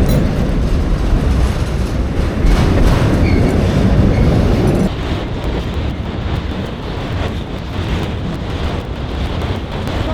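Freight train rolling past, its wheels clacking over the rail joints. The sound drops abruptly about five seconds in.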